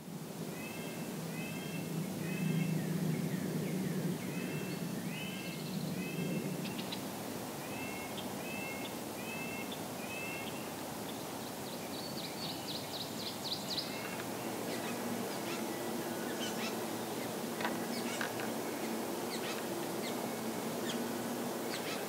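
Wild birds calling around a woodland pond: groups of short, repeated down-slurred whistled notes in the first half, a brief buzzy trill about halfway, then scattered sharp chip notes, over a low steady background rumble.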